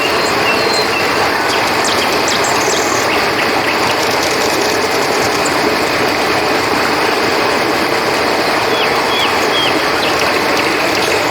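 Steady rush of flowing river water, with crickets chirping in short high bursts over it, clustered near the start and again near the end.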